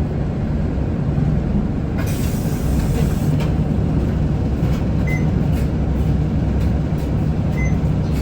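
Isuzu Erga city bus running, heard from inside the cabin: steady low rumble of its four-cylinder diesel and the road, with occasional light rattles and clicks. Two short high beeps sound about five seconds in and again near the end.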